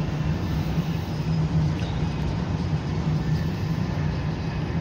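Passenger train running at speed, heard from inside the car: a steady rumble of the wheels on the rails with a constant low hum underneath.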